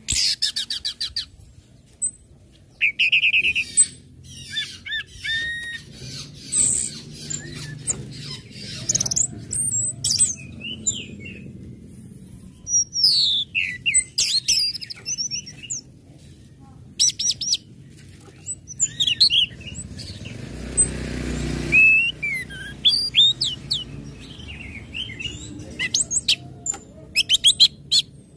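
Orange-headed thrush (anis merah) singing in its 'ngecit, ngeplong' style: a busy, varied run of sharp high chirps, whistled up-and-down phrases and rapid ticking trills, the kind of song birdkeepers play to stir other thrushes into singing.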